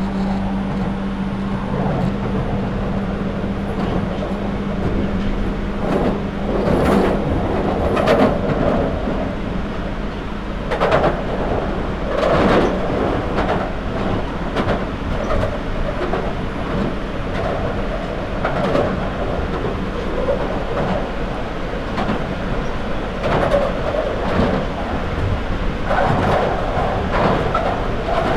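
London Underground 2009 Stock train running in tunnel, heard from onboard: a continuous rumble of wheels and motors with a steady hum that drops away about two seconds in, and repeated knocks of the wheels over the rails.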